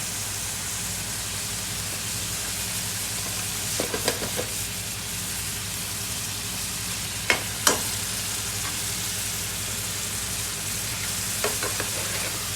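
Food frying and sizzling in a busy restaurant kitchen: a steady hiss over a low steady hum, with a few sharp clinks, about four seconds in, twice around seven and a half seconds, and again near the end.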